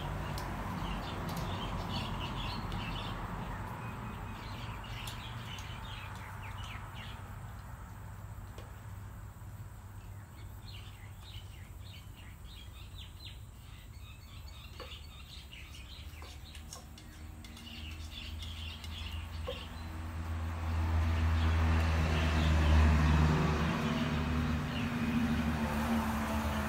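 Small birds chirping on and off. About two-thirds of the way through, a low engine rumble with a steady hum grows louder and becomes the loudest sound.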